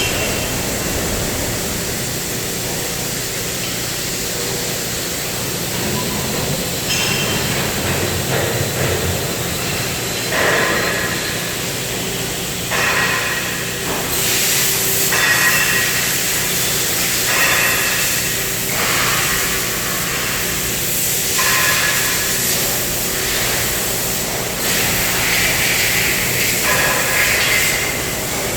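CNC cutting machine's torch cutting steel plate: a steady hiss, with repeated spells of a higher-pitched whine over it every few seconds.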